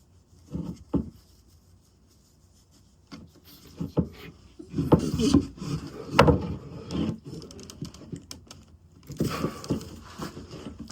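Hands working a burlap wrap and pull cord on a wooden walking stick, tugging the loop to draw the wrap's end up under the burlap. Irregular rustling and scraping with a few small knocks, and a pause about one to three seconds in.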